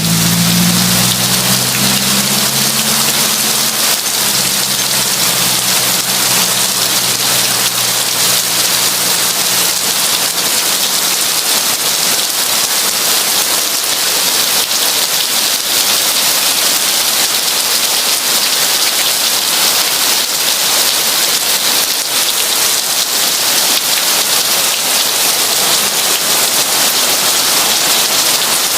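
Heavy rain falling steadily, a dense even hiss. A low hum underneath fades away over the first few seconds.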